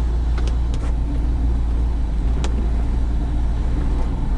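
Car engine idling with a steady low rumble, with a few sharp clicks over it, the loudest about halfway through.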